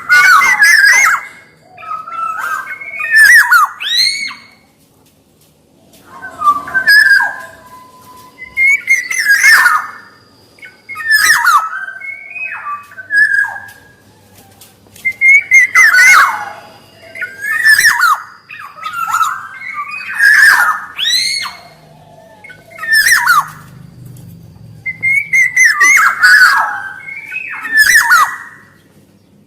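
Black-naped oriole (kepodang) singing: a string of loud short phrases of fluting, gliding whistles with harsher notes mixed in, a phrase every second or two with brief pauses between runs.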